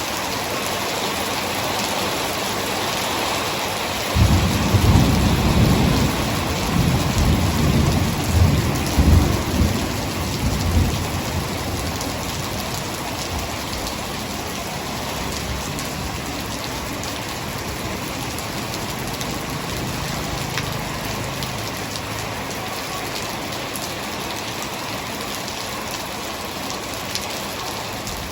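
Heavy rain falling steadily, with a roll of thunder that breaks in suddenly about four seconds in, rumbles in several swells for about seven seconds and then fades back under the rain.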